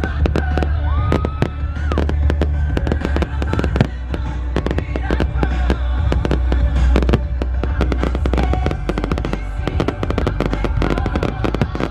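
Fireworks display going off in rapid, dense crackles and bangs, with music playing alongside.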